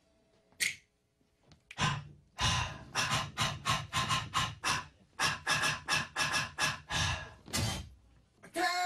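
Hard, quick panting breaths, about four a second, from someone out of breath after dancing, beginning a couple of seconds in.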